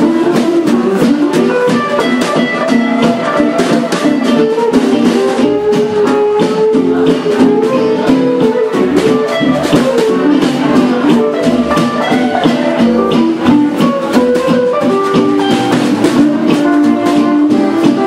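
Gypsy jazz played on guitars, with a steady strummed beat.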